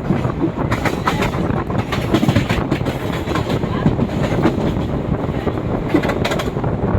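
Express passenger train running through the station at speed without stopping: a steady rolling rush with wheels clattering over the rail joints in repeated sharp knocks.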